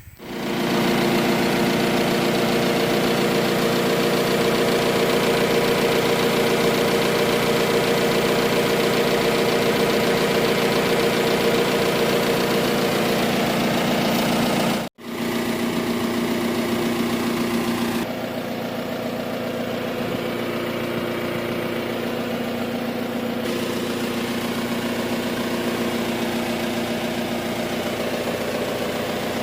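Diesel engine of a John Deere 410 loader backhoe idling steadily, cut off abruptly for a moment about halfway through before it resumes, then running a little quieter.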